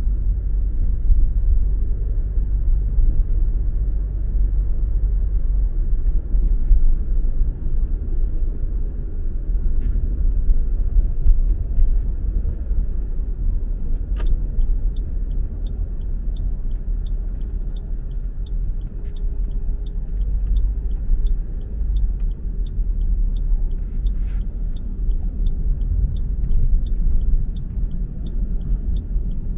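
Car driving, with a steady low rumble of engine and road noise. About halfway in, a single click is followed by a regular ticking, about two ticks a second: the turn-signal indicator.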